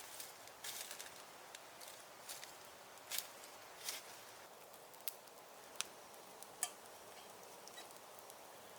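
Faint, scattered sharp clicks and light taps at an uneven pace over a low steady hiss.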